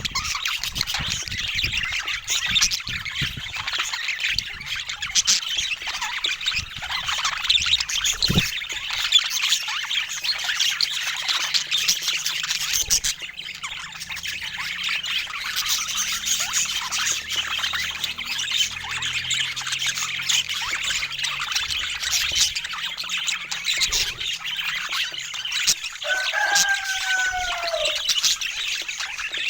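A flock of budgies chattering and chirping continuously, many birds at once, with one clearer, drawn-out falling call near the end.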